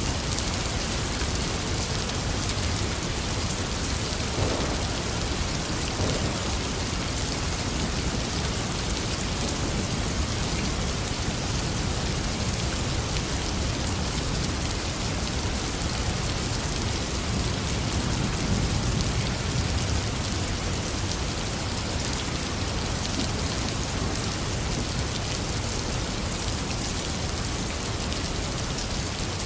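Heavy rain falling steadily, with a low rumble of thunder swelling up about two-thirds of the way through.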